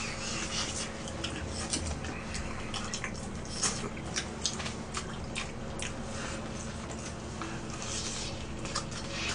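Eating sounds of fried chicken being chewed: irregular wet mouth clicks and smacks, several a second in places, over a steady low hum.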